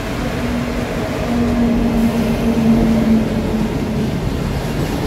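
Electric locomotive-hauled passenger train running through a station at speed. The rush of the passing train grows louder toward the middle, over a steady low tone that cuts off about three and a half seconds in.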